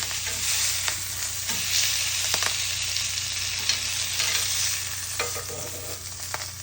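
Salmon sizzling on a hot grill: a steady hiss with scattered crackles and pops.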